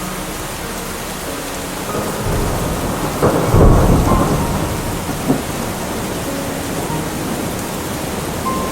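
Steady heavy rain with a thunderclap. The rumble swells about two seconds in, is loudest around three and a half seconds, and a short sharp crack comes near five seconds before it rolls away under the rain.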